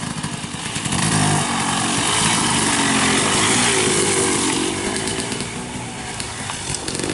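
Dirt bike engine revving hard as a racer passes, the pitch rising and dropping with throttle and gear changes; it gets louder about a second in.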